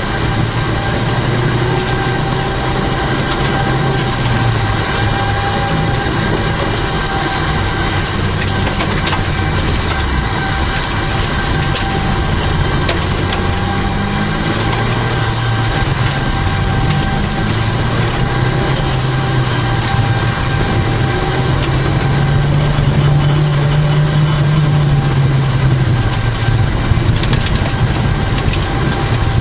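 Toyota Celica GT4's turbocharged four-cylinder engine heard from inside the car at rally pace, its pitch climbing and dropping again and again as it is driven hard through the gears, over constant heavy road noise.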